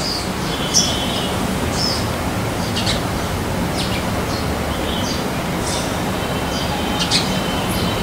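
Small birds chirping: scattered short high calls and a few brief trills, the loudest about a second in and near the end, over a steady low background rumble.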